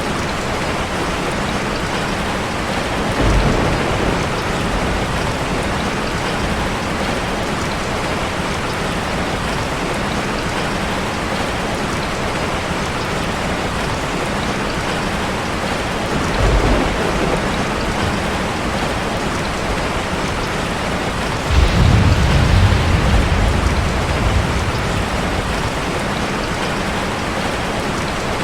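Heavy rain falling steadily on a car, with low rumbles of thunder: two short ones about 3 and 16 seconds in, and a longer, louder one starting about 22 seconds in.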